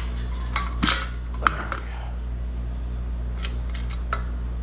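Metal clinks and knocks from a broken piston and loose engine parts being worked out of the bottom of a Briggs & Stratton Intek engine block. There are a few knocks about a second in, a sharp click at about a second and a half, and lighter ticks near the end.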